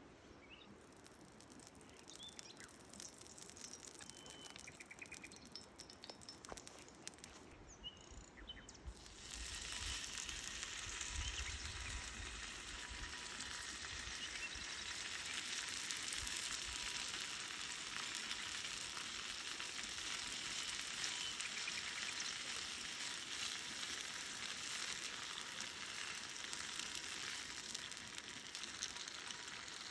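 Food begins frying in a hot pan over a campfire about a third of the way in: a sudden steady sizzle that keeps going. Before it, a few faint bird chirps.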